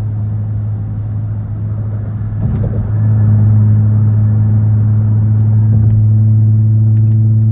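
Car's engine and exhaust drone heard from inside the cabin while driving, a steady low hum that gets a little louder about three seconds in.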